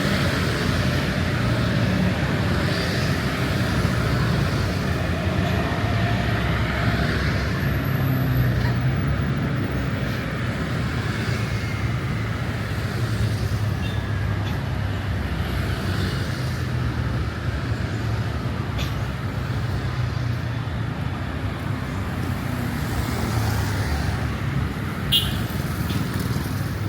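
Steady city street traffic: motor vehicle engines running and passing, with a continuous rumble of engines and tyres. A brief sharp high sound comes near the end.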